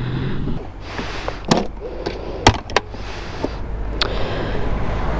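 Several short, sharp knocks and clicks over a low, steady rumble.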